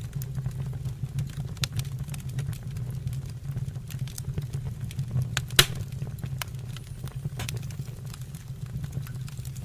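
Wood fire burning in a fireplace stove, crackling with scattered sharp pops over a steady low rumble. One pop a little past halfway is much louder than the rest.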